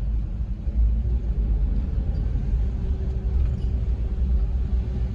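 Steady low rumble of a car driving, heard from inside the cabin, with a faint steady hum coming in about a second in.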